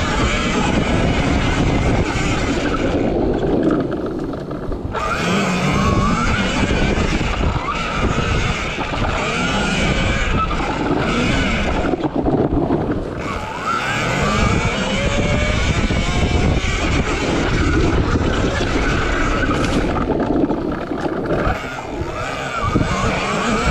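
RFN SX E15 Plus electric dirt bike being ridden: its motor whine climbs in pitch again and again as the throttle opens, over a heavy low rumble, easing off briefly twice.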